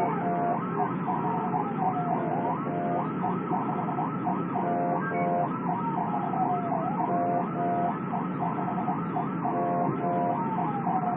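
Police sirens: a fast repeating yelp overlapped by a slower wail that sweeps down about every four seconds, over steady road and engine noise.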